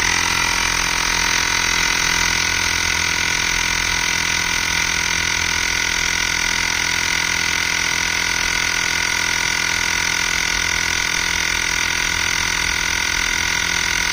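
Xiaomi rechargeable portable tyre inflator's electric compressor switching on suddenly and running steadily, pumping air into a car tyre.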